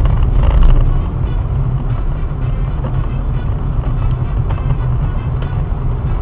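Steady low rumble of a car driving, engine and road noise as picked up by a dashcam, a little louder in the first second.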